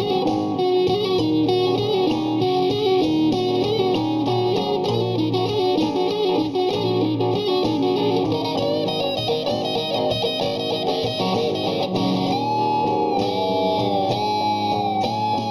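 Electric guitar improvising a blues solo over a backing of rhythm guitar and a basic drum line. Near the end it holds one long, wavering, bent note.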